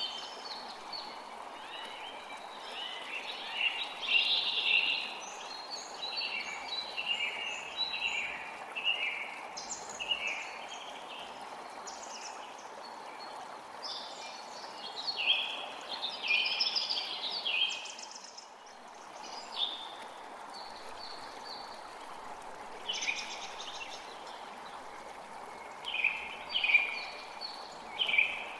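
Forest creek running steadily, with songbirds singing short, chirping phrases over it. The birdsong drops out for a few seconds about two-thirds of the way through, leaving only the flowing water.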